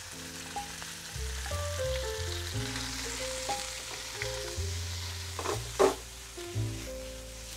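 Sliced pork sizzling as it fries in hot oil and garlic in a wok, stirred with a metal spatula. A couple of sharp spatula scrapes against the wok a little past halfway.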